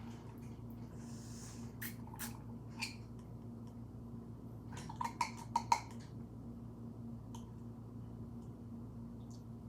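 A steady low hum with scattered short clicks and taps, including a quick run of four or five about five seconds in.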